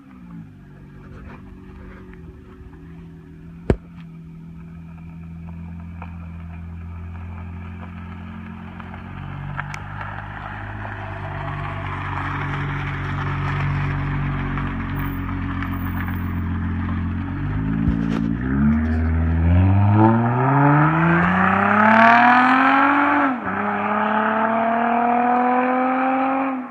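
Acura TL exhaust idling steadily, then the car pulls away and accelerates hard, the engine note climbing in pitch, dropping briefly at a gear change and climbing again before it cuts off. A single sharp click sounds a few seconds in.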